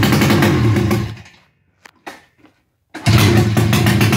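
Snowmobile two-stroke engine, bored out to 800cc and running with no exhaust, revved hard in two loud bursts: the first falls away about a second in, and the second starts about three seconds in.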